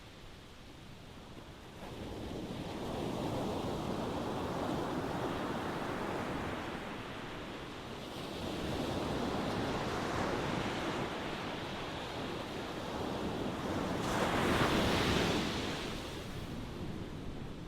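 Ocean waves breaking and washing in, a steady rushing wash that swells in three slow surges, the loudest a little past the middle.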